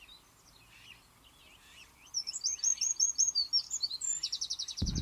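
A songbird singing: faint high chatter at first, then from about two seconds in a loud phrase of quick repeated high notes that ends in a fast trill.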